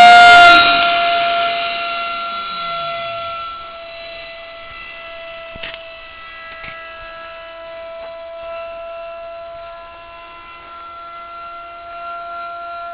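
Electric ducted fan of a model Eurofighter jet giving a steady, high-pitched whine. It is loud at first, fades over the first few seconds as the model flies away, then holds even. Two faint clicks come around the middle.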